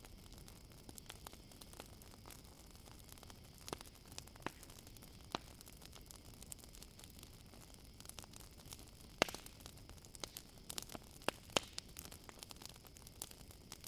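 Campfire crackling quietly, with irregular sharp pops that are sparse at first and come thicker from about nine seconds in. Under it runs faint, steady cricket chirring.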